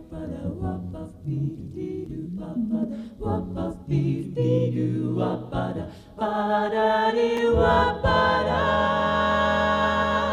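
A cappella vocal group singing jazz, with a bass voice under moving close harmony, then holding a final chord for about four seconds before it cuts off.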